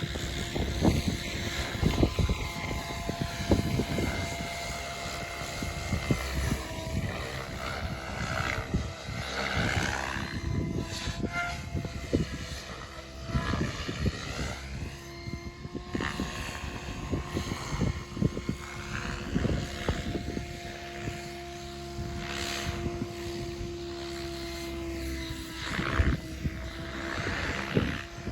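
Radio-controlled model aircraft (MIU TB60) flying in a 3D test, its motor note drifting up and down in pitch, with strong wind buffeting the microphone.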